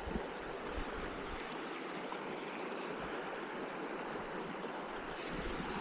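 Mountain brook running steadily: an even rush of flowing water.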